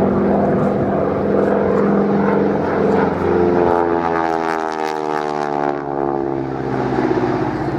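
Avro Anson's twin Armstrong Siddeley Cheetah radial engines in flight, loud and steady. About halfway through, the pitch of the engine note drops as the aircraft passes by.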